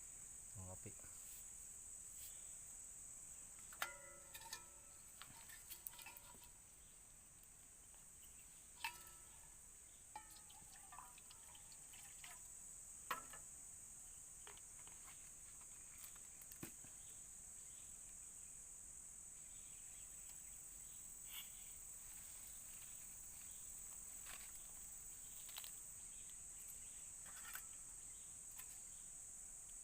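Steady high-pitched drone of insects, crickets or cicadas, in a rural setting. A few short clicks and knocks cut in now and then, some with a brief ringing tone.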